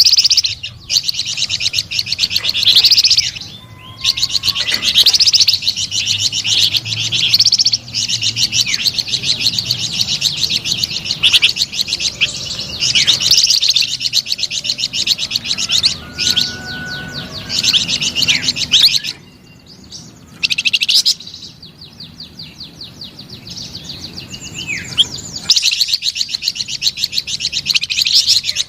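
A flamboyan songbird singing a long, fast, trilling and chattering song of rapid high notes, broken by short pauses twice.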